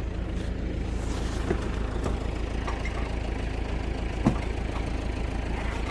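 Isuzu Elf truck engine running steadily at idle, with a couple of short knocks over it, the louder one about four seconds in.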